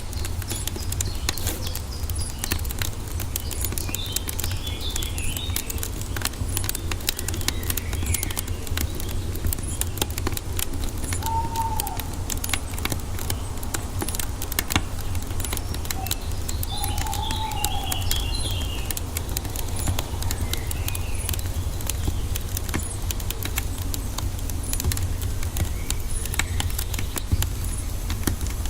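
Wood fire crackling with dense, irregular pops over a steady low rumble, while a few birds chirp in short phrases in the background, most clearly twice.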